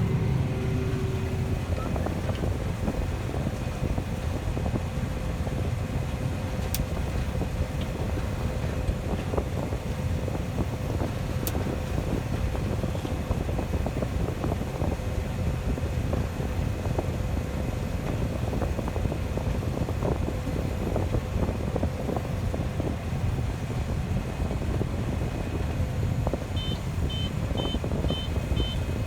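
Farm machinery engine running steadily with a low rumble. Near the end a rapid string of short high beeps sounds, about four a second.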